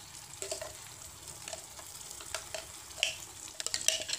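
Wet blended spice paste (bumbu halus) sizzling in hot oil in a small frying pan, a steady hiss with scattered pops and spatters. The spatters come more often and louder near the end.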